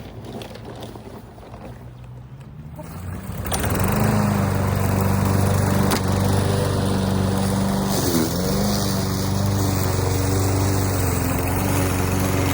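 Troy-Bilt TB110 push mower's small engine coming up to full speed about three and a half seconds in, then running steadily, with a brief dip in pitch around eight seconds.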